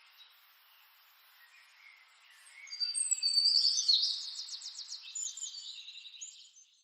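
Wild songbirds chirping: faint calls at first, then a loud burst of song with a fast trill about three seconds in, trailing off into softer chirps before the sound stops near the end.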